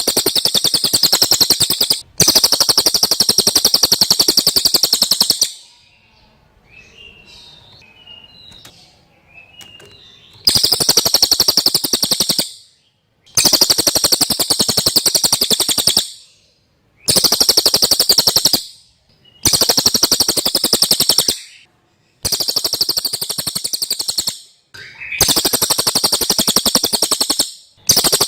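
Cililin songbird singing in loud, very rapid chattering phrases of two to five seconds each, separated by short pauses. A few faint, soft chirps fill a longer pause about six seconds in.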